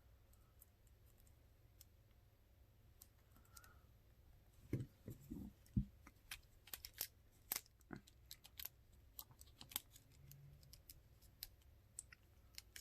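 Faint, irregular clicks and taps of small plastic phone parts being handled and fitted together as a flip phone is reassembled, with a few soft knocks about five seconds in.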